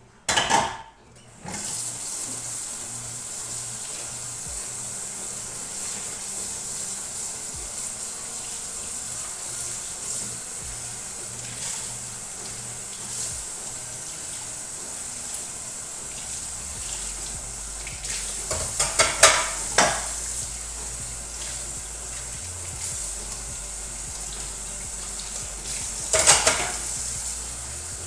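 Kitchen work: a steady hiss throughout, with dishes and pans clattering briefly near the start, in a cluster about two-thirds of the way through, and once more near the end.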